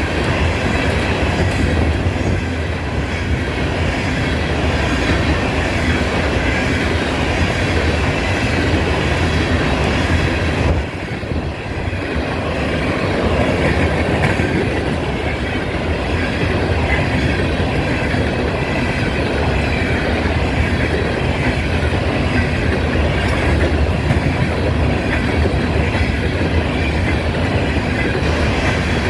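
CSX freight train rolling steadily past, its cars' wheels running on the rails in a continuous loud clatter, easing briefly about eleven seconds in.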